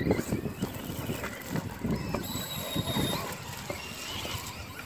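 Traxxas Rustler VXL RC cars running through wet mud and water, tyres churning and splashing, with a thin high electric-motor whine rising out of it about two seconds in for around a second.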